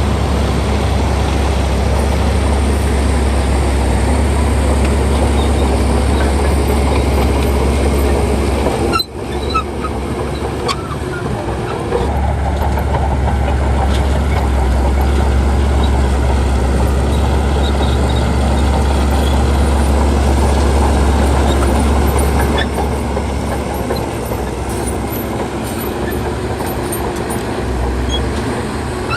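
Heavy diesel earthmoving machinery running steadily under load, with a deep engine hum. The sound cuts out briefly about nine seconds in, then resumes.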